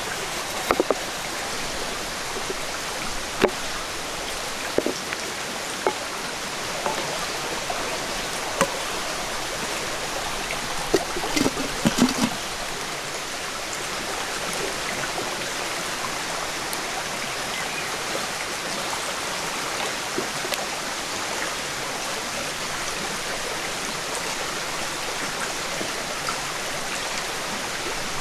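Steady hiss of running water, with a few light knocks and clicks scattered over it and a short cluster of them about eleven to twelve seconds in.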